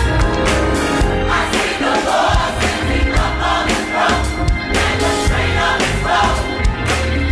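Gospel choir singing with a band, with a steady bass and drum beat.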